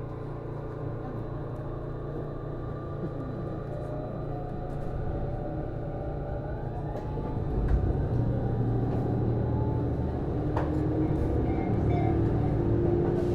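Interior running sound of a JR East HB-E210 series hybrid railcar. The Hitachi IGBT-VVVF inverter and traction motors give several whining tones that rise in pitch as the train gathers speed, over a low rumble, and the sound grows louder through the stretch.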